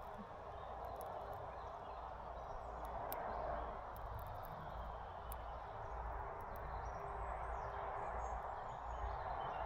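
Faint, short bird chirps and calls from small songbirds over a steady outdoor background hum.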